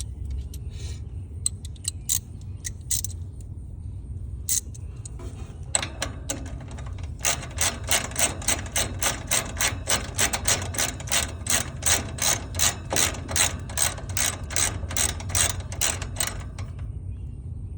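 Ratchet wrench clicking in an even run of about three clicks a second for roughly ten seconds, after a few scattered clicks, as it turns a service valve on an AC condensing unit.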